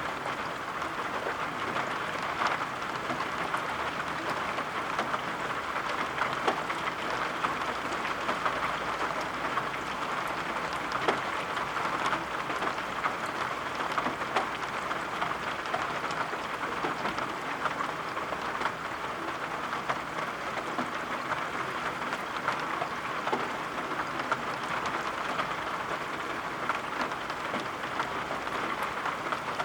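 Steady rain falling, an even hiss with many small sharp ticks scattered through it.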